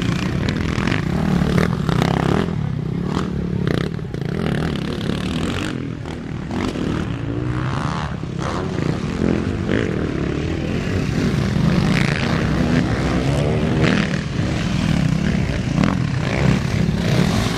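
Motocross dirt bikes racing, their engines revving up and down so the pitch keeps rising and falling, with short scraping and clattering noises mixed in.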